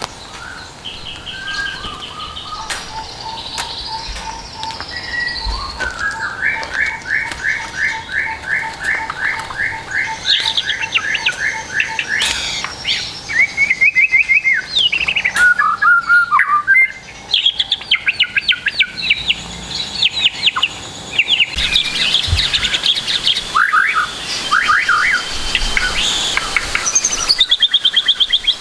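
White-rumped shama song recording packed with imitated calls of other birds: a steady run of varied phrases, trills, rapid repeated notes and sharp chirps, at times with two strands of song overlapping.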